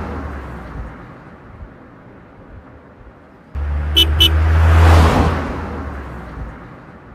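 A car sound effect: a low engine hum and a whoosh that cuts in about three and a half seconds in, swells and fades away. Two quick high chirps come near its start. Before it comes the fading tail of the same kind of whoosh.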